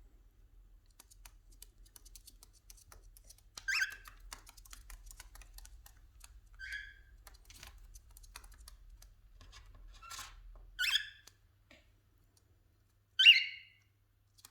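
Cockatiels giving four short, harsh calls, the last and loudest near the end, over a run of light, rapid clicking from their beaks pecking.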